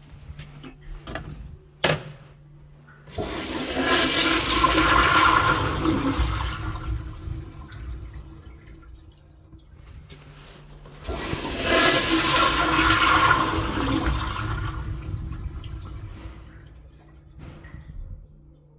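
Daelim Dobidos DC-102 toilet flushing: a sharp click, then water rushing loudly through the bowl in two surges about eight seconds apart, each dying away over a few seconds.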